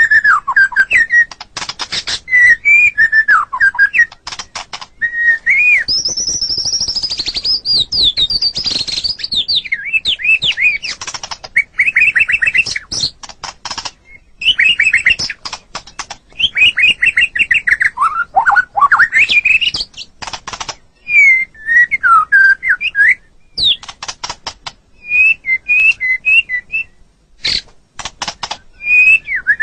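White-rumped shama (murai batu) singing a continuous, varied song: quick whistled phrases that slide up and down, broken up by dry rattling clicks and short trills.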